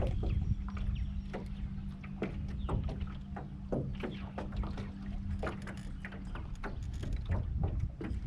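Electric trolling motor humming steadily on a jon boat, cutting off about six seconds in, over wind rumble on the microphone and scattered light ticks and knocks.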